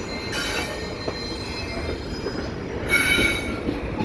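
Double-stack intermodal freight cars rolling slowly through the yard, with a low rumble under them. Their steel wheels squeal high-pitched against the rails twice, briefly.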